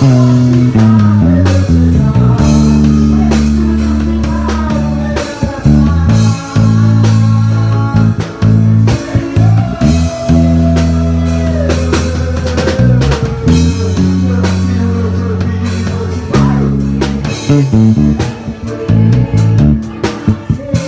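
Band music with no vocals, an instrumental break in a gospel song: bass guitar holding long notes that change every second or two, a drum kit keeping time, guitar, and a melodic lead line that slides between notes.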